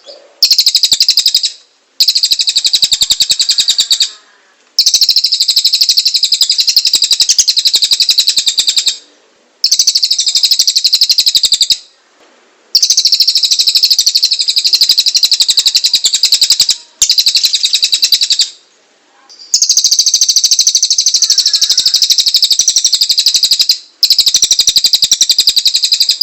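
Cililin songbird singing in long runs of very rapid, high, scratchy repeated notes, each run lasting a few seconds and broken by short pauses. This is the loud, harsh 'tembakan kasar' style of cililin song that keepers play as a tutor recording for murai, kacer and cucak ijo.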